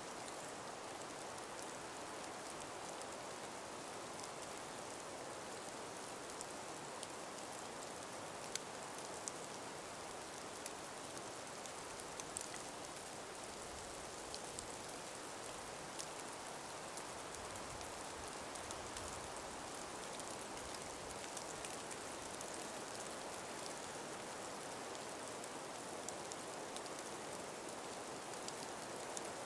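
Calm winter breeze through an ice- and snow-laden forest: a steady soft hiss with scattered faint ticks.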